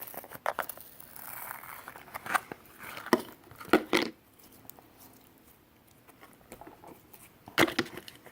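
Bubbly slime being pulled apart and squished by hand, giving scattered sharp clicking pops, with a quieter stretch midway and a few more pops near the end.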